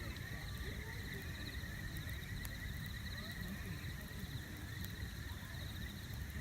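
A wood campfire burning, with a low rumble and scattered sharp crackles, while insects chirr steadily in a fast pulsing high trill.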